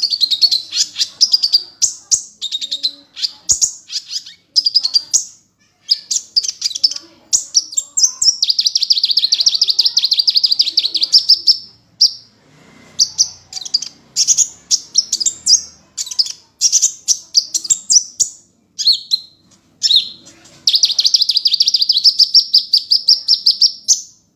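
Kolibri ninja sunbird singing: high, rapid chirping phrases alternating with long, fast trills of evenly repeated notes.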